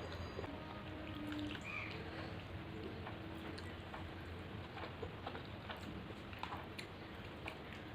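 Close-up eating sounds as rice and fish curry is eaten by hand: chewing with many small mouth clicks and smacks.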